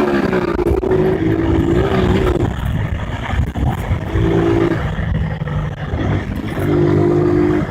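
Honda CG 150 motorcycle's single-cylinder four-stroke engine being ridden off-road, its note surging under throttle and dropping away several times, with a quick change in pitch at the start.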